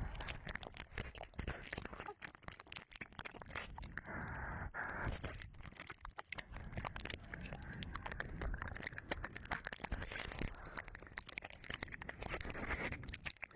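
Ear licking and wet mouth sounds close against a 3Dio binaural microphone: a dense, irregular run of clicks and smacks over soft breathy noise.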